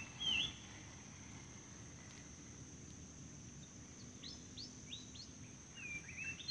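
Small bird calling with short whistled chirps: one loud note about half a second in, then a quick run of four falling chirps about four seconds in and more near the end. A steady high-pitched insect drone runs underneath.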